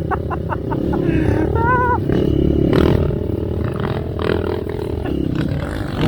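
Off-road dirt bike engine running steadily as it rides, its pitch rising and falling slightly with the throttle.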